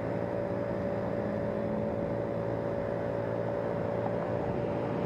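Vehicle moving steadily along a road: a constant hum over an even rush of road and wind noise.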